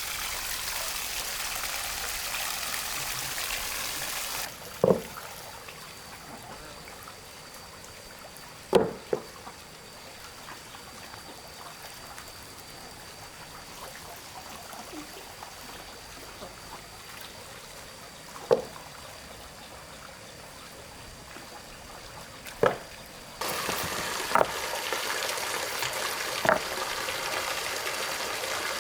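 Water running and pouring in a steady hiss, dropping away to a quieter stretch a few seconds in and coming back near the end. Several sharp knocks sound during the quieter stretch.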